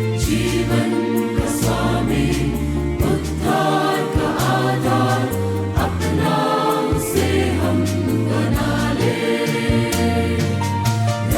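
Church choir singing a Christmas carol in parts, backed by instruments with sustained bass notes and regular percussion strikes.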